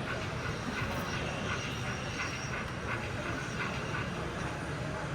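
Model railway train running on an exhibition layout, a steady rumbling run with no sharp events, over a background of crowd chatter in the hall.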